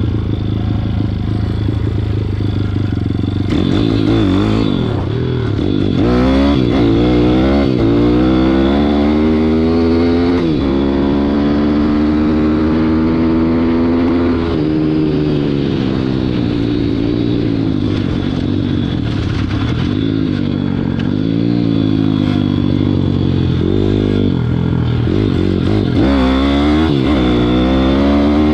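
WPB 160 pit bike's single-cylinder four-stroke engine under riding throttle. The pitch climbs and drops again and again, with one long climb that falls away suddenly near the middle and then holds steady for a few seconds before easing off. Quick rising revs come again near the end.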